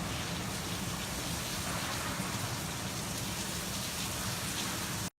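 Heavy hurricane rain and wind, a steady rushing noise with a heavy low rumble, cutting off abruptly about five seconds in.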